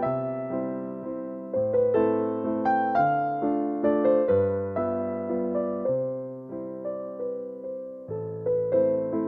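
Background music: a soft piano or electric piano playing a gentle melody, notes struck and left to fade over a low repeating bass note.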